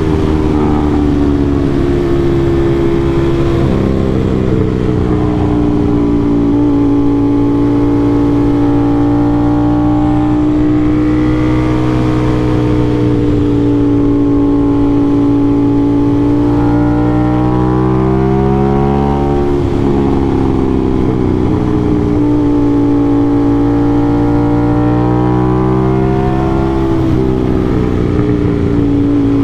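Aprilia RS660's parallel-twin engine breathing through an SC-Project CRT exhaust under riding load. The revs climb and fall again and again as the bike is worked through the gears and corners.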